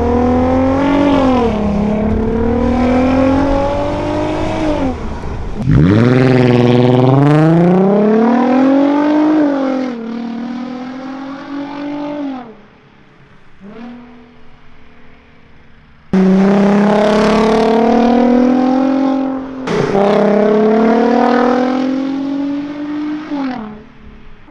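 Audi A3 3.2 VR6 engine accelerating hard through the gears, its pitch climbing and dropping back at each upshift. It goes much quieter for a few seconds past the middle, then comes back in suddenly and loud, pulls through another shift, and eases off near the end.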